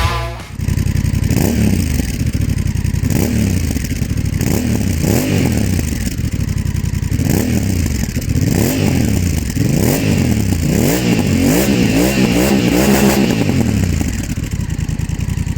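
Honda CMX1100 Rebel's 1,084 cc parallel-twin engine through a GPR aftermarket exhaust, revved again and again, its pitch rising and falling with each throttle blip. The blips come quicker and closer together near the end.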